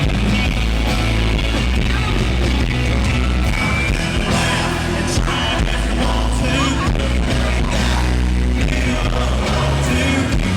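Live country-rock band playing loudly through a concert PA, with a strong steady bass and drums under singing.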